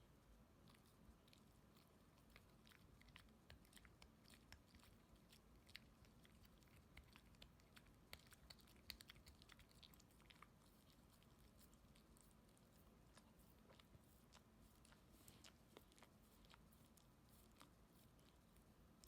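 A dog chewing at its own toenails: faint, irregular little clicks and crunches of teeth on nail, busiest around the middle.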